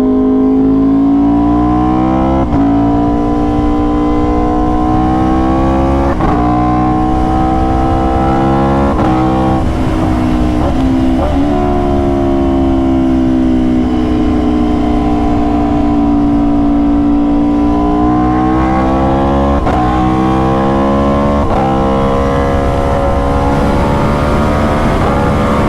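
Aprilia RSV4's V4 engine pulling hard, its pitch climbing in each gear and dropping sharply at several quick upshifts. Midway it holds and eases down for a few seconds, then climbs and shifts up again.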